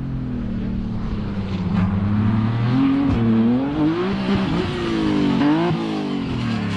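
Rally car engine revving hard, its pitch rising and falling several times as the driver accelerates and lifts off, with quick climbs and sharp drops around the middle and near the end.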